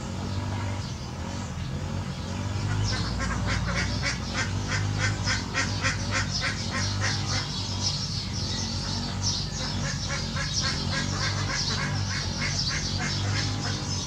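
Birds calling in a rapid run of short, sharp calls, several a second, starting a few seconds in, over a steady low hum.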